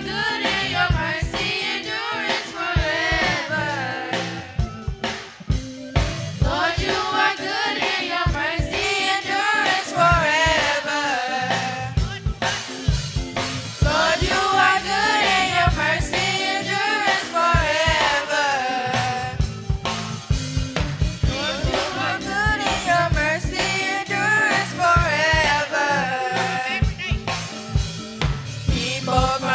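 Church choir singing a gospel song, accompanied by a drum kit keeping a steady beat.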